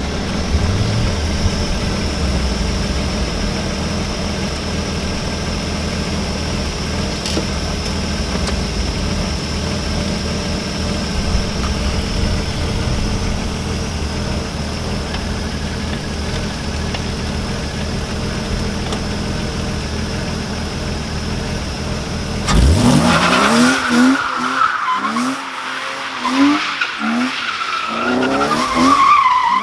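BMW E36's M52 straight-six idling steadily with its freshly rebuilt VANOS. About 22 seconds in the engine revs up sharply and keeps revving in repeated pulls while the tyres squeal in a long drifting slide.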